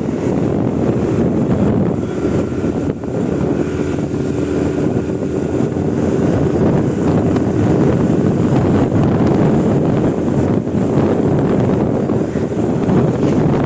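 Loud, steady rushing of wind on the microphone and road noise from a moving vehicle, with a faint engine hum partway through.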